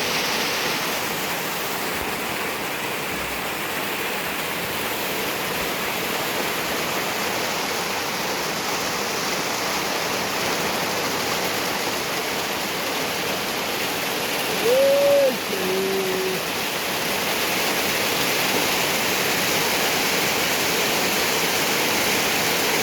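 Heavy rain falling steadily, a constant dense hiss. About fifteen seconds in, one short pitched call rises and falls, then a lower note is held for about a second.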